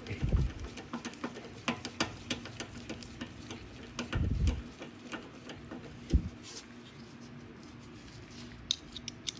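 Small clicks and taps of carburetor and automatic choke parts being handled and fitted on a Briggs & Stratton 190cc mower engine. Two dull bumps come near the start and about four seconds in, then a sharp knock about six seconds in and a quick run of small clicks near the end.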